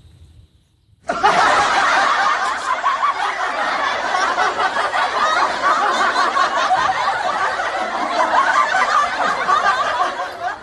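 Crowd laughter, a dense many-voiced laugh-track sound effect that starts suddenly about a second in and cuts off sharply near the end.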